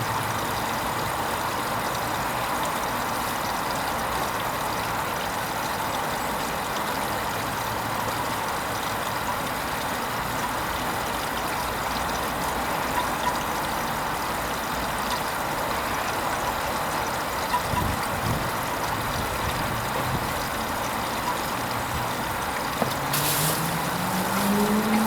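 Hoover Vision HVP16 washing machine mid-cycle on its Silks programme: a steady rush of water inside the machine. Near the end a motor hum starts and rises in pitch, then holds, as the drum motor speeds up.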